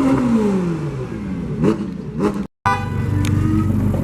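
Car engine being revved: a rev falls away over the first second or so, then two quick blips. After a brief dropout, engines run more steadily.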